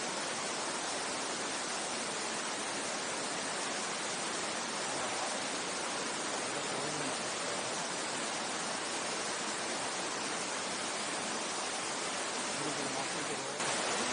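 Mountain stream water rushing steadily, an even hiss of flowing water. The level steps up slightly near the end.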